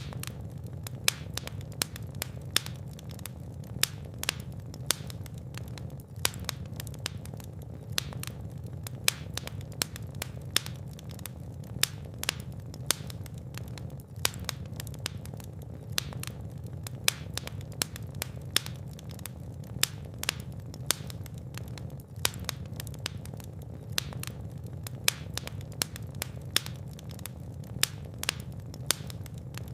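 Wood fire burning in a fireplace: a steady low rumble of flames with dense crackling and frequent sharp pops.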